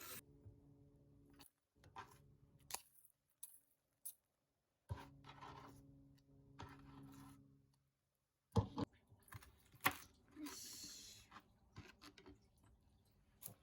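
Quiet handling noises: light clicks, knocks and rustling as things are picked up and set down, over a faint low hum. The loudest knocks come about two thirds of the way through.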